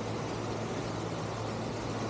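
Surf machine running: a steady rush of pumped water with a low, even hum underneath.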